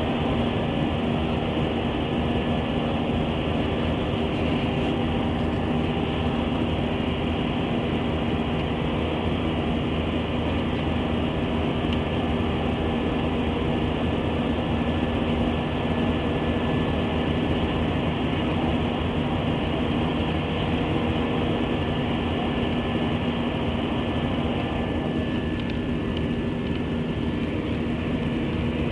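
Jet airliner's engines heard from inside the passenger cabin: a steady, loud drone with an even hum through it.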